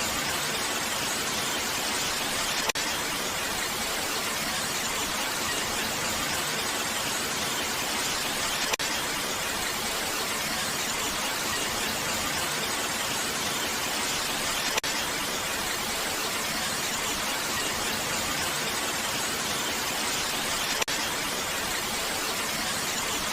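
Steady, unbroken hiss of rain, with a faint click about every six seconds.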